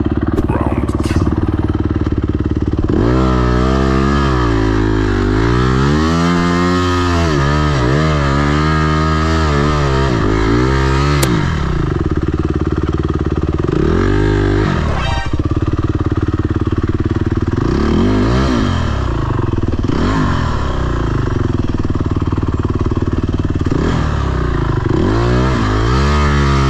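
Dirt bike engine revving hard, its pitch swinging up and down in repeated sweeps, then holding steadier with a few brief dips. The revs rise and fall as the bike fights for traction on slippery mud.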